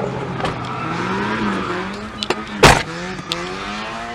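A car engine revving, its pitch rising and falling, while tyre noise fades away. A sharp crack about two and a half seconds in.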